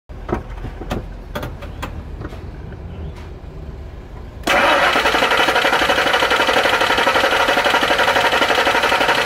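Ford Expedition engine flooded with fuel from a failed fuel pressure regulator: a low, uneven rumble with scattered clicks, then, about four and a half seconds in, a sudden loud, steady, rapidly pulsing churn as it is cranked over in a hard start.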